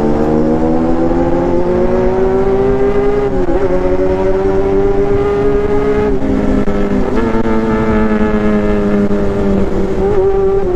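A 1995 Honda CB400 Super Four Version S inline-four running hard under the rider, loud enough that he calls it deafening. Its pitch rises slowly over the first few seconds, then holds steady with a few brief dips, over a steady rush of wind and road noise.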